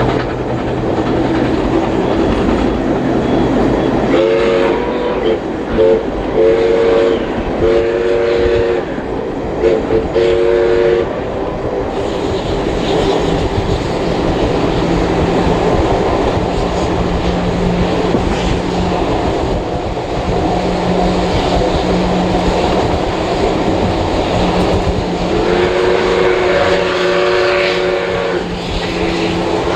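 Baldwin steam locomotive 5917's chime whistle sounding in a string of blasts, several short and long ones in the first half and two longer ones near the end, over the steady rumble and wheel clatter of the moving train.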